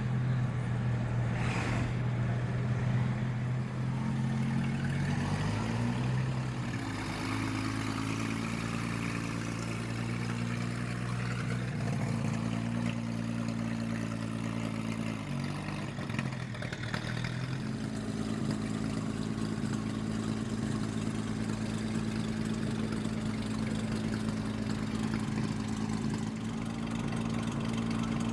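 Early-era racing car engine running steadily with a deep, even note. Its speed shifts up and down a few seconds in and again past halfway, then settles into a steady run.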